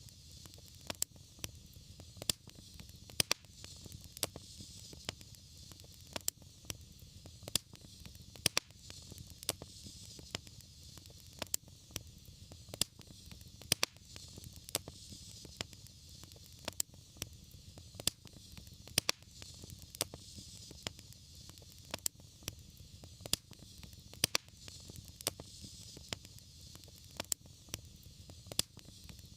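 Wood fire crackling in a fireplace: frequent sharp pops and snaps over a steady hiss and a low rumble of the flames.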